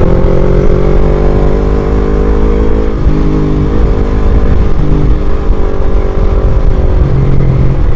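Motorcycle engine running at a steady cruise, with strong wind buffeting the microphone in a loud low rumble.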